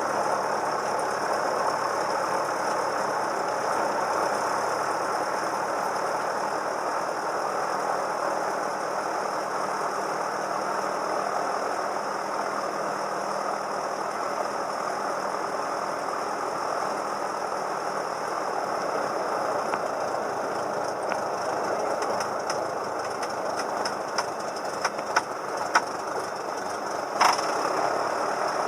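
Cessna 172M's four-cylinder Lycoming engine and propeller droning steadily in flight, heard in the cabin. A few sharp clicks come near the end, the loudest just before it.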